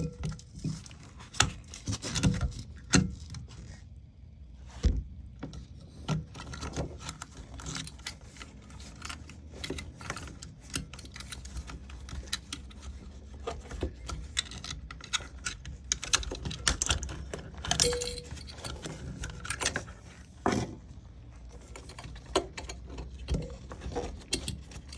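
Irregular clicks, taps and light metallic clatter of hand tools, screws and a panel being handled while the rear cover of a beverage cooler is taken off.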